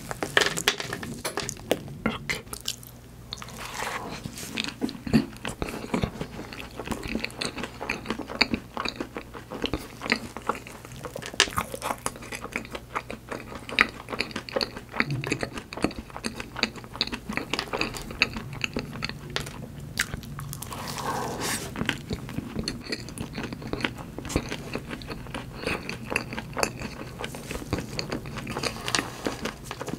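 Close-up chewing and biting of a profiterole: a choux puff coated in white chocolate and topped with chocolate chips and sliced almonds. Many small crisp crunches and mouth sounds come in quick irregular succession.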